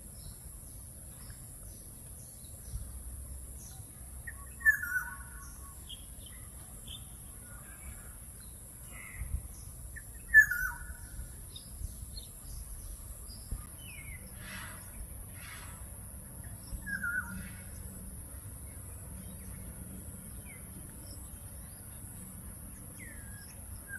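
Birds calling: short chirps every few seconds, the loudest twice near the start, over a steady high hiss.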